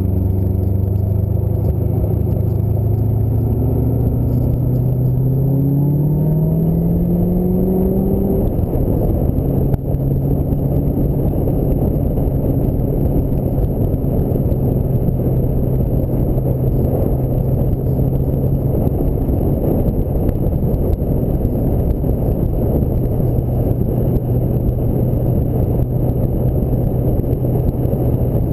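Ford Mustang SVT Cobra's V8 accelerating, its pitch climbing for about eight seconds. After a brief dip near ten seconds it settles to a steady cruising hum under a dense rush of wind and road noise.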